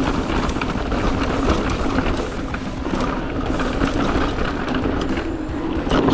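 Merida eOne-Sixty electric mountain bike riding fast over a dirt trail: tyres rumbling and the bike rattling and clattering over bumps, with a steady hum underneath.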